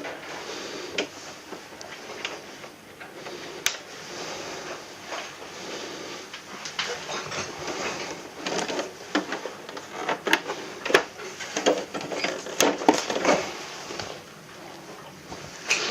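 Irregular plastic clicks, knocks and rattles from hands working the casing and parts of a room air conditioner's indoor unit during disassembly. They get busier and louder from about six seconds in, then ease off near the end.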